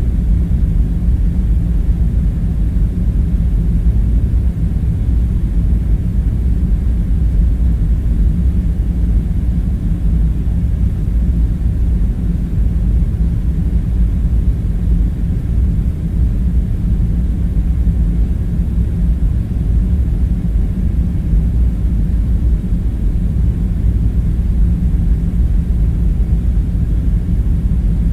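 A steady low rumble that holds even throughout, with no distinct sounds standing out.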